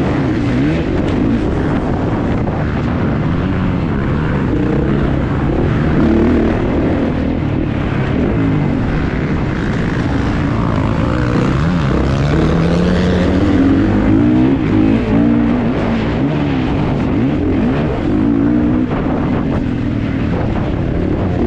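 Kawasaki KX450's four-stroke single-cylinder engine under race load, revs rising and falling again and again as the rider opens and closes the throttle, with wind and rough-track noise on the onboard microphone.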